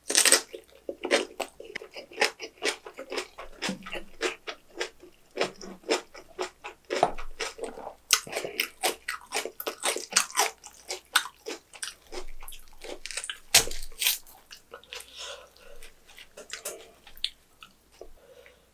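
Close crunching and chewing of fresh napa cabbage kimchi with rice: a rapid run of crisp crunches, loudest as a bite is taken at the start and again about 13 seconds in.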